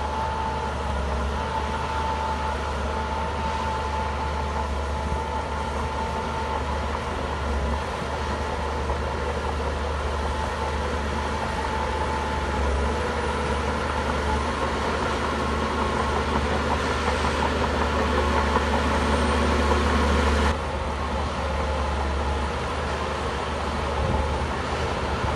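Heavy diesel engine of an earthmoving machine running steadily, with a thin whine coming and going through the first half. The sound changes abruptly about twenty seconds in.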